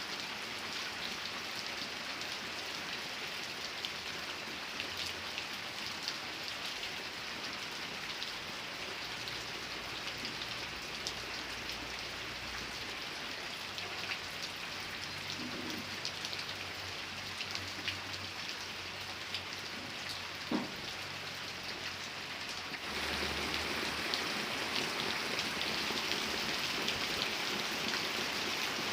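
Steady rain falling, with individual drops pattering on a surface. Late on it suddenly grows louder, as if the rain turns heavier.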